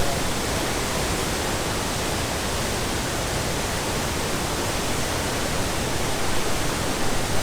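Large, high-volume waterfall pouring, heard as a steady, even rush of water.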